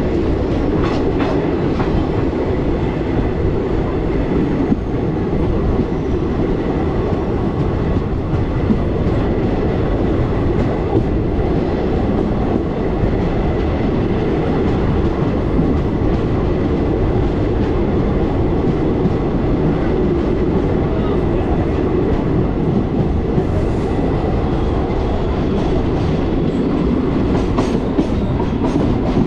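Passenger express train running steadily, its wheels clacking over the rail joints under a constant running noise.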